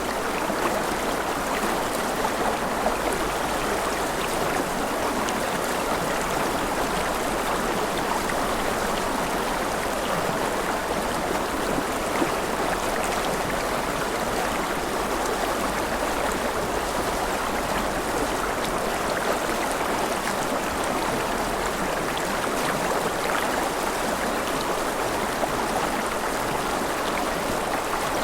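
Mountain river running over rapids: a steady, even rush of flowing water.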